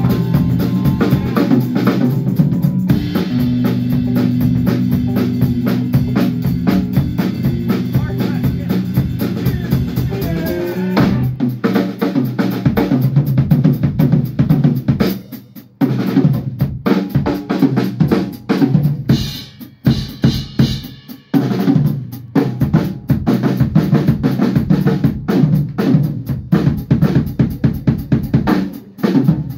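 Live band music with a drum kit. For about the first eleven seconds held notes ring over the beat. After that the drums play mostly alone in fast phrases of bass drum, snare and rimshots, with short gaps between them.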